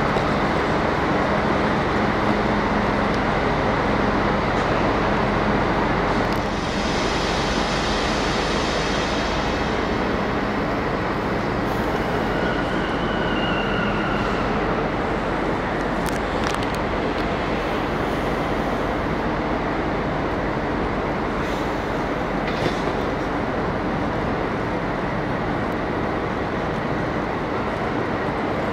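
Train running on the rails with a steady rolling noise. A brief hiss comes about seven seconds in, and a short high squeal about twelve seconds in.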